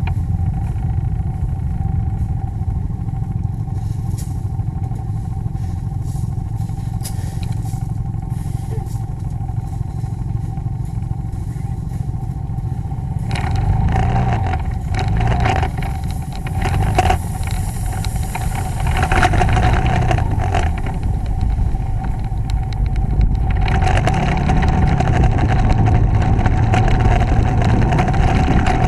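Motorcycle engine running while the bike is ridden, over a steady low rumble. From about halfway through, its pitch rises and falls as the throttle opens and closes.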